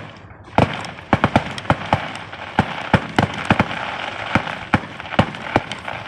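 Fireworks going off in quick succession: one sharp bang at the start, then a fast, irregular string of bangs and pops over continuous crackling.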